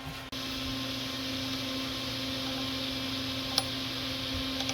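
Steady electrical hum with an even hiss, and a single sharp click about three and a half seconds in.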